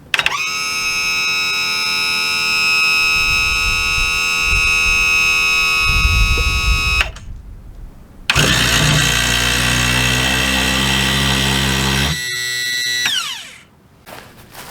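Bigfoot hydraulic landing gear's electric pump motor runs with a steady whine for about seven seconds and stops. It starts again after a short pause, now rougher and noisier with a low rumble, changes character near the end and winds down. This retracting noise is one the owner can't explain; he guesses the two halves of the legs are binding a little.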